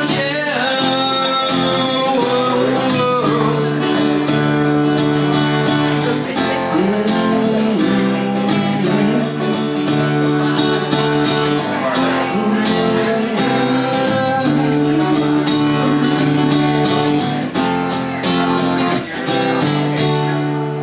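A song played live on strummed guitar, with chords held and changing every few seconds and a voice singing at times.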